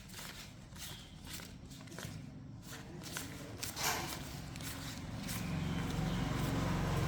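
An engine running at a steady low speed, growing louder about five seconds in, with footsteps and light knocks over it.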